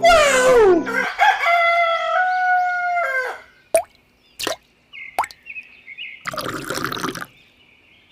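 A rooster crows for about three seconds, in a falling then long held call. Then come a few single water plops and a short splash about a second long.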